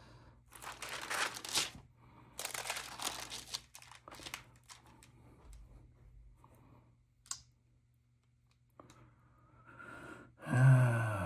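Stamp album pages being turned and handled: two loud rustles of paper and plastic sleeves in the first few seconds, then softer rustling and a single sharp click.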